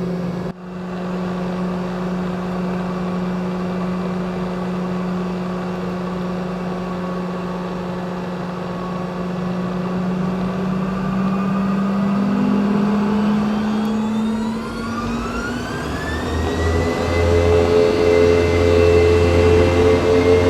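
Boeing 717 jet engines (Rolls-Royce BR715 turbofans) heard from the cabin, humming steadily at low power. About fourteen seconds in they spool up with a rising whine, and a deep rumble builds as thrust is set for the takeoff roll.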